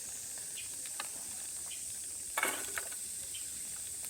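Cicadas droning in a steady, high-pitched chorus. A few faint ticks sound, and a brief, louder noise comes about two and a half seconds in.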